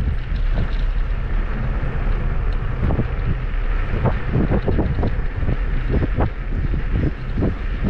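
Wind rushing over the microphone of a moving Kugoo G2 Max electric scooter: a steady low rumble broken by many irregular short thumps and rattles from the ride.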